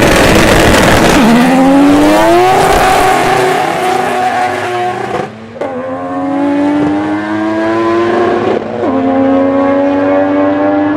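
A tuned performance car engine pulling hard through the gears, its pitch climbing steadily and dropping at each upshift: about a second in, around halfway, and near the end.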